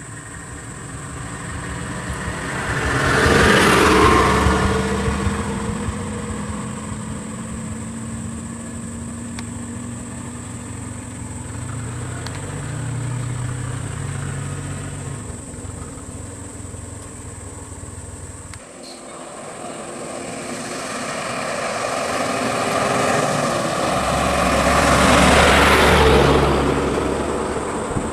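Motor vehicles passing by: engine and tyre noise swells and fades, once about four seconds in and again near the end, with an abrupt break a little past the middle.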